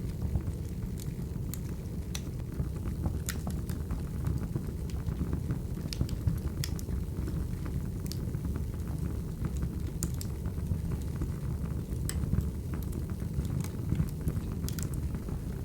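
Firewood burning in a fire: a steady low rumble of flames with sharp crackles and pops scattered through it, about one a second.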